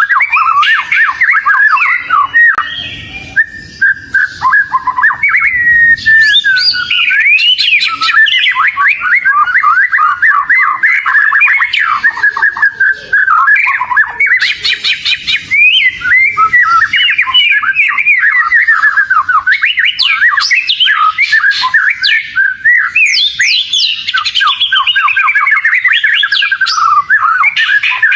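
Oriental magpie-robin (kacer) singing nonstop, a loud, fast, varied song of whistles, slurred notes and trills, filled with mimicked phrases (isian) learned from other birds.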